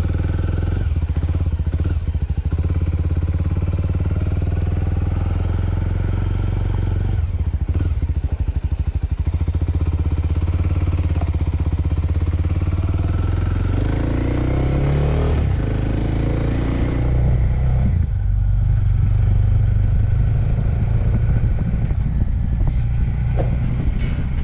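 A small Suzuki motorcycle's engine running as it is ridden, steady and loud, with the revs changing pitch a few times through the gears.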